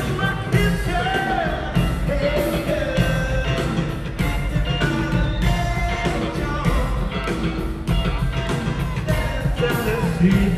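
Live rock band playing, with electric guitar, bass and drums and a lead line that bends in pitch.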